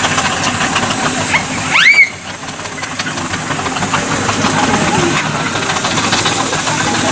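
Steam engine hissing steadily, with a short rising whistle blast about two seconds in.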